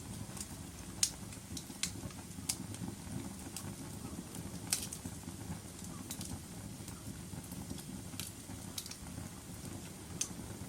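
Wood fire burning in a fireplace: a steady low rumble of flames with irregular sharp crackles and pops, the loudest pops about a second in and near the middle.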